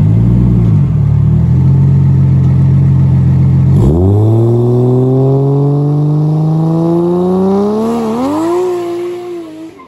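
Nissan S13 drift car's engine held at steady high revs, then the revs dip about four seconds in and climb steadily as the rear tyres spin up in a burnout. Near the end the revs waver and fall away.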